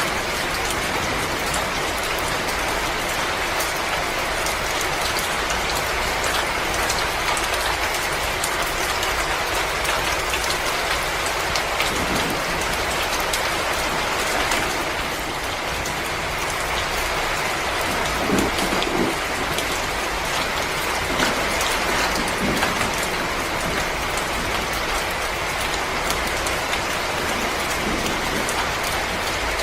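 Wood fire crackling and hissing steadily in a fireplace, with a few louder pops a little past the middle.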